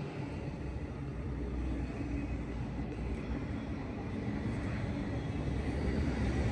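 Approaching train: a low rumble growing steadily louder.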